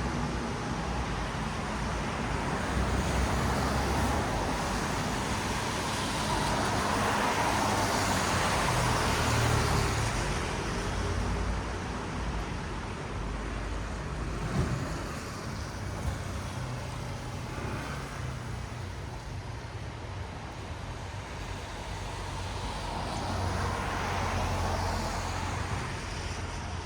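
Traffic on a wet city road: car tyres hissing on the rain-soaked pavement as vehicles pass, with low engine rumble. Louder passes swell up about eight seconds in and again near the end.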